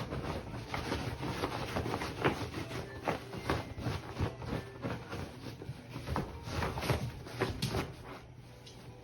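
A beagle digging at her bed with her front paws: a fast, irregular run of scratching strokes that stops near the end.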